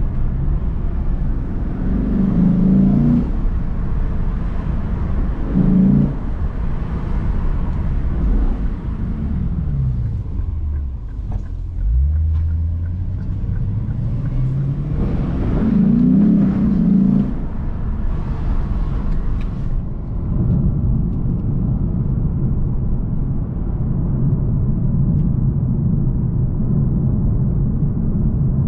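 Lexus RC F Track Edition's 5.0-litre V8 heard from inside the cabin at town speeds. The engine note swells briefly a few times, drops low and climbs again around the middle as the car slows and picks up, and then settles into a steady cruising note over road noise.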